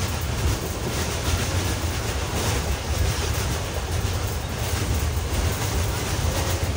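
Passenger train carriage in motion: a steady low rumble of the wheels on the track and a rushing noise from the running train.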